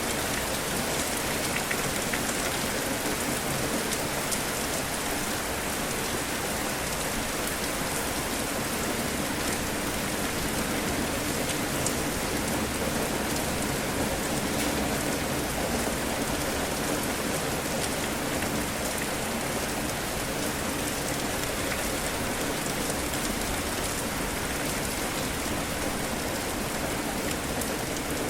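Rain falling steadily, an even hiss with many fine drop ticks.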